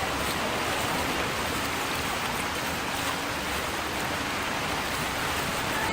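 Steady, dense rushing of water, as from a flooded torrent or heavy rain.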